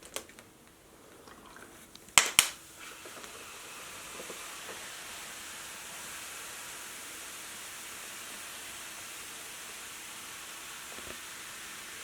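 Baking soda and vinegar reacting inside a bottle, fizzing with a steady hiss, which starts just after two sharp clicks about two seconds in.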